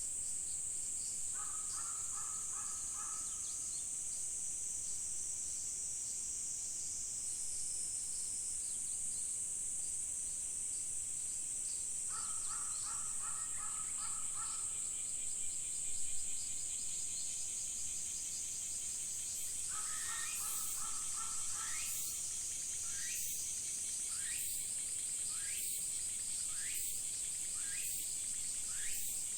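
Insects shrill in a steady high chorus throughout, while a bird calls in three short bouts. In the last few seconds a run of evenly spaced calls comes about once a second.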